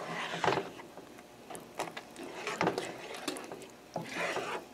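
A spoon scraping and stirring in a saucepan of cream sauce as grated Parmesan is mixed in: irregular rubbing strokes with a few sharp clicks against the pan.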